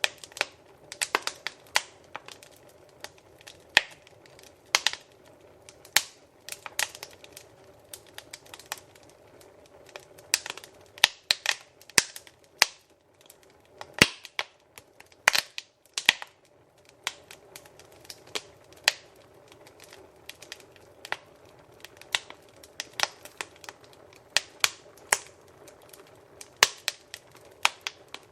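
Wood fire crackling in a fireplace: irregular sharp pops and snaps, several a second at times, over a faint steady hiss of the flames.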